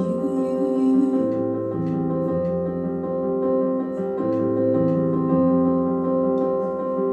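Live song accompaniment on a keyboard: slow, sustained chords with a low bass note, moving to a new chord every two and a half seconds or so, in an instrumental gap between sung lines.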